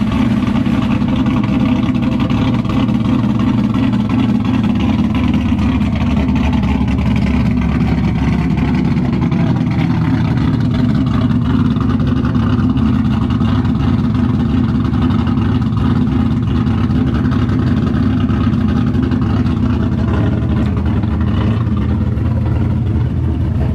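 LS V8 in a swapped Nissan 350Z idling steadily through a loud exhaust. It has a rasp that an X-pipe is expected to cure.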